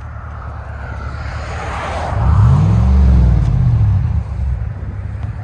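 2020 Chevy Silverado's 6.2-litre V8 running through factory dual exhaust with a Magnaflow muffler: idling, then revved once about two seconds in, the pitch rising and falling back over a couple of seconds.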